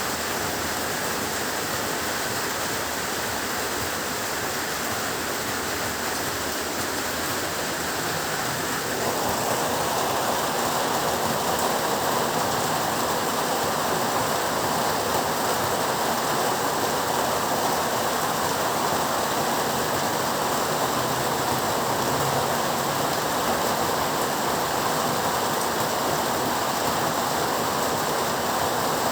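Heavy rain falling steadily, growing a little heavier about nine seconds in.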